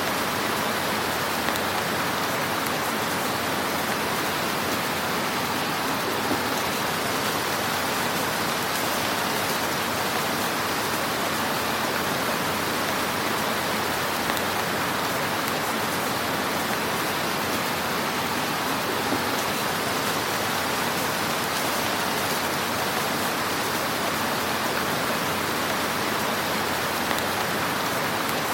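Wood fire burning in a fireplace: a steady hiss of dense, soft crackling with an occasional slightly louder pop.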